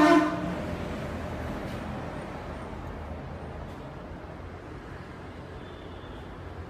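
Steady rumble of road traffic going by, with no single vehicle standing out.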